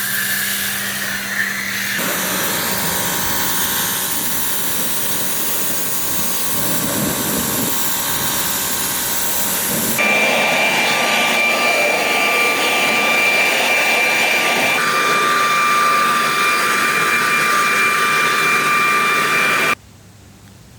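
Car-detailing machines running in a series of short edited clips: a steady motor whine over hissing noise, changing abruptly at cuts about 2, 10 and 15 seconds in, and cutting off just before the end.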